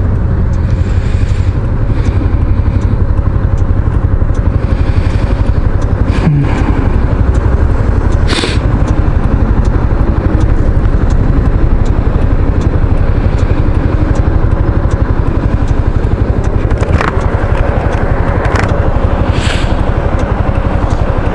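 Kymco Xciting 500 maxi-scooter engine running steadily under way, with road and wind noise around it. A few short swells of noise come through.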